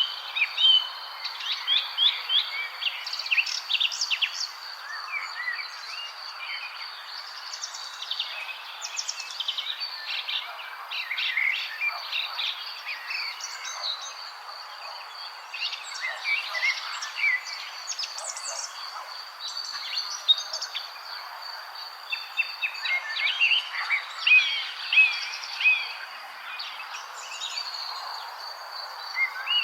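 Several songbirds chirping in quick runs of short, high notes, coming and going in clusters, over a steady high-pitched tone and a constant soft hiss.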